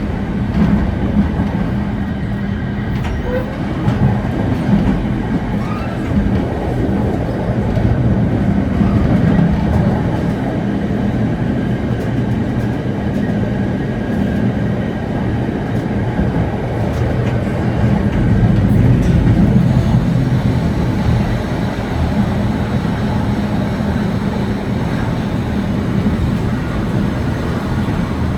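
Historic steam tram train running along the rails, heard from aboard a carriage: a steady low rumble of wheels and coaches.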